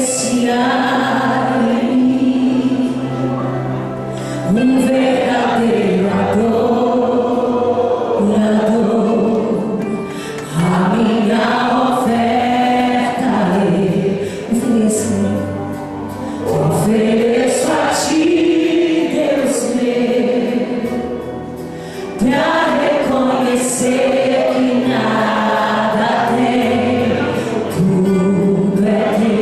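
Church choir singing a slow gospel song over instrumental accompaniment, in long phrases of held notes that pause briefly about every six seconds.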